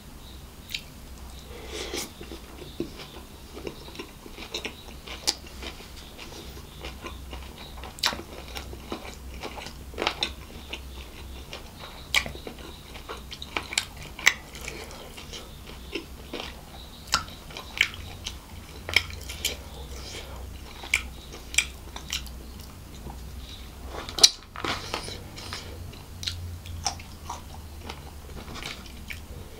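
A man chewing a mouthful of seafood fried rice eaten by hand, with many short sharp mouth clicks scattered throughout and one louder click about 24 seconds in.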